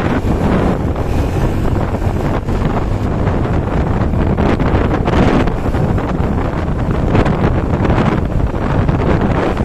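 Wind buffeting the microphone: a loud, steady rushing noise that swells and dips unevenly.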